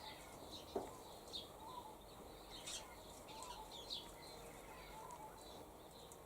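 Faint wild birdsong: scattered short high chirps and tweets, with a soft low call repeating roughly once a second.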